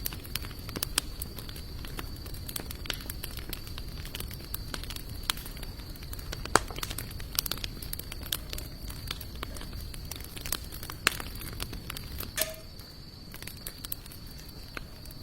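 Wood fire of sawtooth oak and mixed hardwood crackling, with frequent sharp pops and snaps over a low rumble of burning, thinning out a little near the end. A steady high tone runs underneath.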